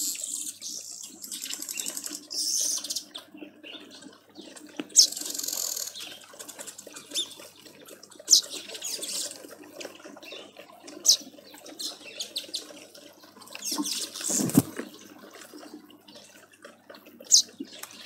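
Wild birds calling around a garden feeder: short, sharp high chirps every few seconds over a background of softer chirping. There is a dull thud about fourteen and a half seconds in.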